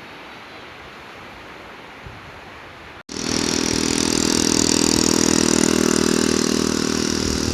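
A steady, fairly quiet hiss, then, after a sudden cut about three seconds in, a loud motorbike engine running close by with a bright hiss over it.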